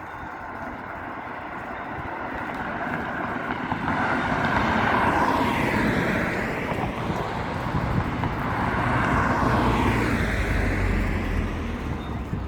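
Vehicles passing by: a rumble and rush that swells to loud about five seconds in, eases, and swells again about nine seconds in before fading.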